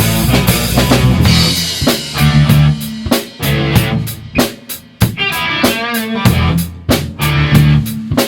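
A rock band playing live, wordless: a drum kit hitting a steady beat over bass and guitar. About halfway through, a wavering lead line comes in above the chords.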